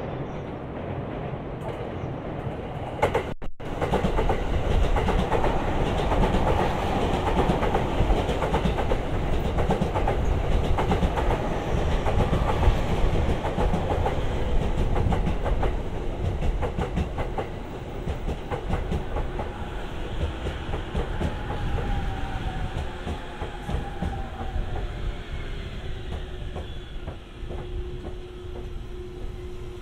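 Electric commuter train pulling in on the track beside the platform, its wheels clattering over the rail joints, with a motor whine that falls in pitch as it brakes to a stop. The sound cuts out briefly about three seconds in.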